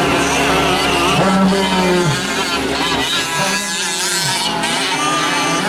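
Several 1/5-scale gas RC trucks' small two-stroke engines racing, their pitch rising and falling as they rev up and back off.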